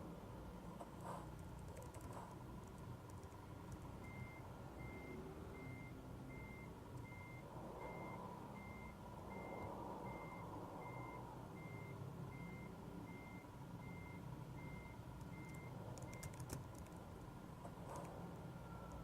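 Scania R450 truck engine running low and faint under a warning beeper that sounds a short, high, even beep about every three-quarters of a second for some twelve seconds, then stops.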